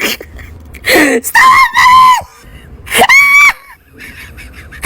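High-pitched screaming: a few loud held screams, each about half a second long, with short gaps between.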